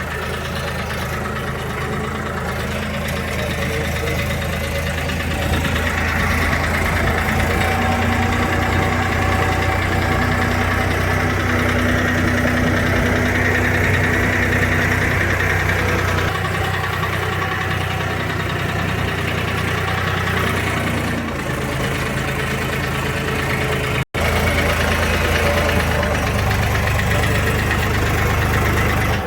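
Farmtrac tractor's diesel engine running steadily while pulling tillage gear across a field, a deep continuous hum that swells slightly a few seconds in and eases again later on. It breaks off for a split second once, near the end.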